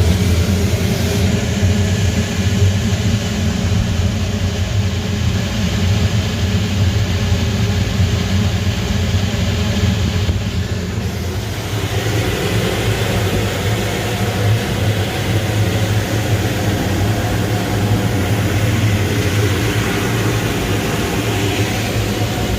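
Boiler room machinery running: a loud, steady mechanical drone with a deep hum under it.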